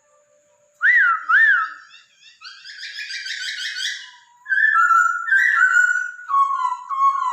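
Poksay Hongkong bird song. Loud clear whistles: two swooping notes about a second in, then a fast warbling run, then a string of level whistled notes that step down in pitch.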